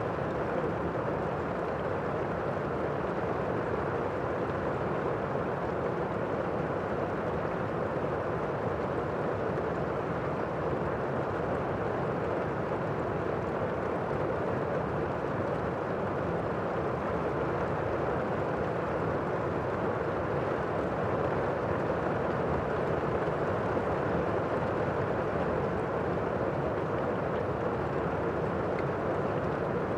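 Steady rain: an even, continuous rushing noise, dull rather than hissy, with no separate drop impacts or thunder standing out.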